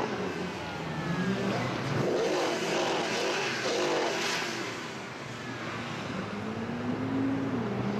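Ferrari FF's V12 engine heard while driving, its pitch rising and falling several times as it accelerates and eases off, with one clear rise and drop near the end.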